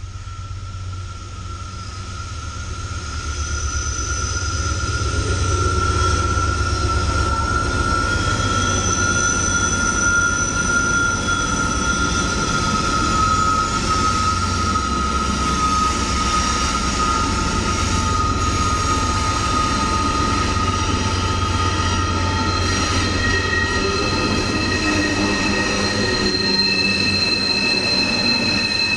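Norfolk Southern freight train passing overhead: a steady diesel locomotive rumble, with long, steady high-pitched squeals from the wheels grinding through the curve of the loop. The sound builds over the first few seconds and then holds.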